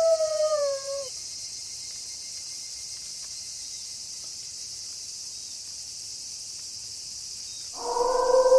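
A wolf howl that falls in pitch and stops about a second in, then a steady high hiss of night-time background, then another wolf howl starts near the end on a lower, steady note.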